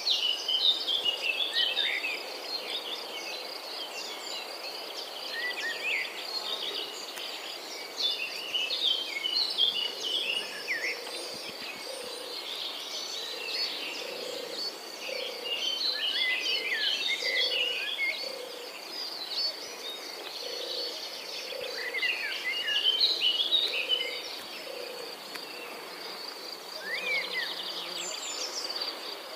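Outdoor nature ambience: a steady, high insect trill runs throughout while several birds chirp and sing in quick, overlapping phrases. Softer low notes repeat through the middle.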